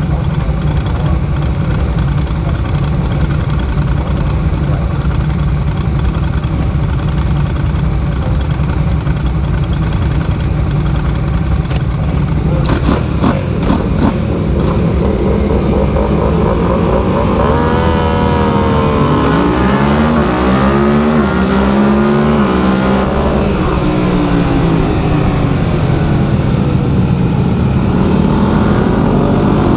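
Small engine running steadily at a low speed, with a few sharp clicks a little before halfway; then its pitch rises and falls in several broad sweeps as the engine speed goes up and down.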